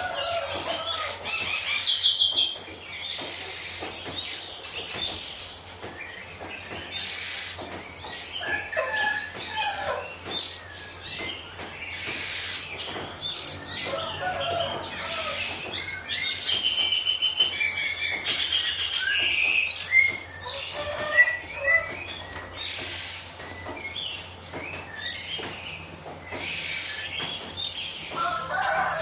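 Oriental magpie-robin bathing: repeated fluttering wingbeats and splashing, with chirps and short whistled calls throughout.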